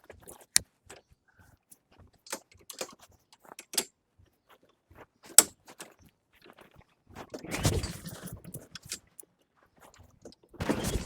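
Scattered clicks, knocks and thunks of hands working on a lawn mower, with a longer, louder rustling rumble about seven seconds in.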